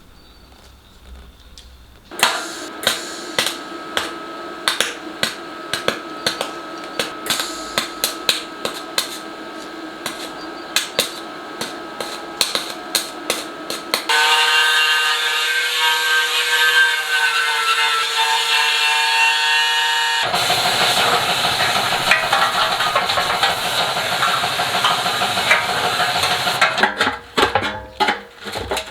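Rapid, repeated hammer strikes, likely on sheet metal, for about twelve seconds. They give way to a steady whining tone for several seconds, then a rough, noisy stretch near the end.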